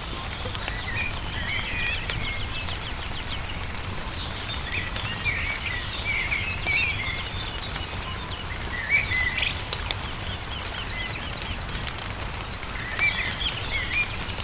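Small songbirds chirping in short warbled phrases over the scattered pops and crackles of a wood fire, with a steady low rumble underneath.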